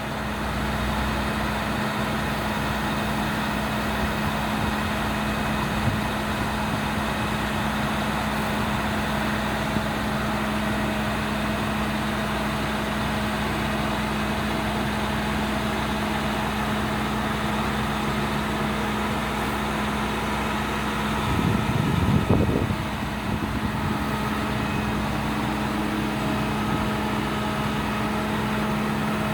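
Engine of a 2008 International crane truck running steadily with an even hum while powering the crane as it rotates. There is a brief louder rise about two-thirds of the way through.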